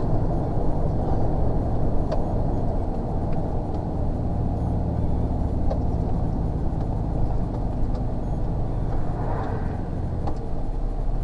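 Lorry's diesel engine running, heard from inside the cab as a steady low drone whose note changes a couple of times, with a few light clicks.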